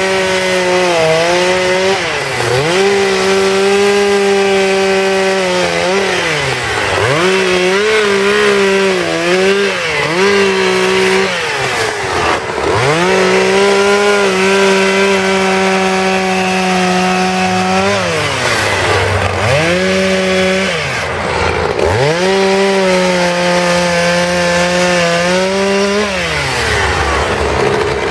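Petrol two-stroke chainsaw running at high revs and cutting into wood. Its pitch sags each time the chain bites into the cut and climbs back between cuts, about eight times.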